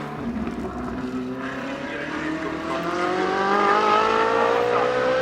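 Ferrari 458 Challenge EVO race car's naturally aspirated V8 accelerating hard, its pitch rising steadily as it revs up through a gear and growing louder.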